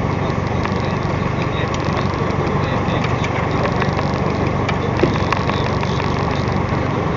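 A fishing boat's engine running steadily, with scattered faint ticks over it.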